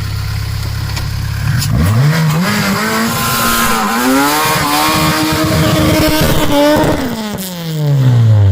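Honda K24 2.4-litre inline-four in a Civic, idling and then revving hard: its pitch climbs steeply about two seconds in, holds high for around four seconds, then falls away near the end.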